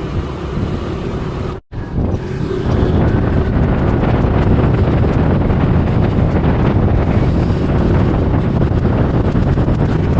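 Steady wind buffeting the microphone while moving, a dense low rumbling noise. The sound cuts out completely for a moment under two seconds in, then comes back louder and stays steady.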